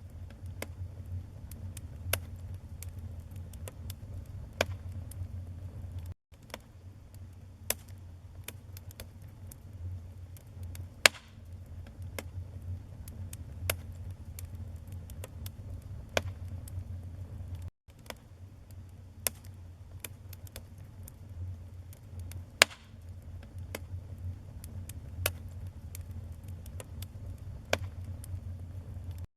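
Wood fire burning in a fireplace: irregular sharp crackles and pops over a steady low rumble of the flames. The sound cuts out for an instant twice.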